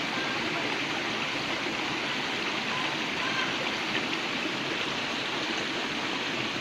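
Mountain stream and waterfall water rushing steadily over rocks.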